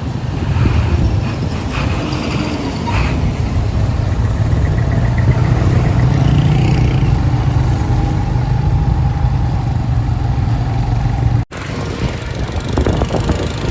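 Motorcycle engine running under way, with a steady low rumble and road and wind noise. The sound drops out for an instant about eleven and a half seconds in.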